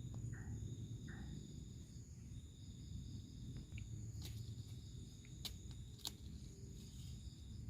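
Insects, crickets by their sound, trilling steadily at several high pitches, with a low rumble beneath. A few sharp clicks come about four to six seconds in.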